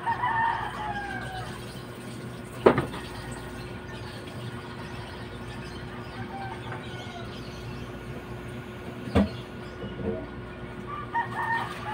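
Short bird calls in the first second and again near the end, with two sharp knocks between them, over a steady low hum.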